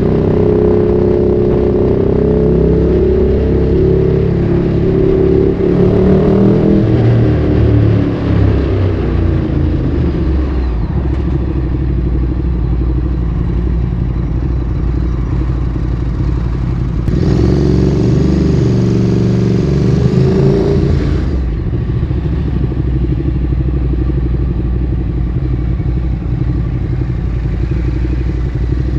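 Ducati Streetfighter 848's L-twin engine through a Termignoni exhaust: revs climb for the first several seconds, then drop off and settle to a low, steady beat. The revs rise again briefly about two-thirds of the way through before falling back to a low, even run.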